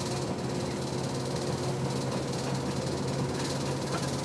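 Steady machine hum with a low drone and hiss, unchanging throughout.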